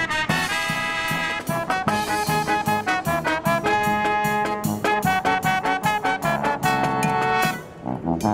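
Marching brass band playing a lively tune, with trumpets and trombones carrying the melody in short and held notes. The band pauses briefly near the end, then comes back in.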